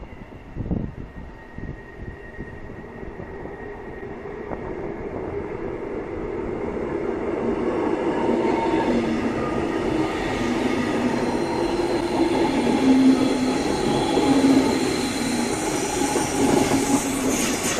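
A DB Regio double-deck regional train with a class 182 electric locomotive approaching on curved track, its rolling noise growing steadily louder as it draws near, with wheels squealing on the curve. A brief low thump comes just under a second in.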